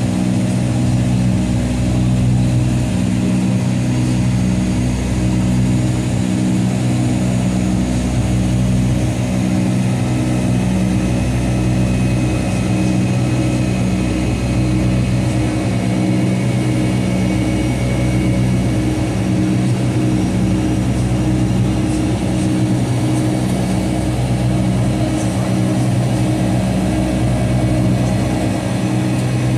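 Steady engine drone and rushing noise inside the cabin of a Boeing 757-200 with Pratt & Whitney PW2037 turbofans, a low multi-tone hum holding constant pitch throughout.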